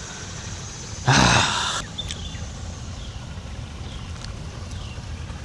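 A short, loud, breathy grunt from a person, about a second in, over a steady low background.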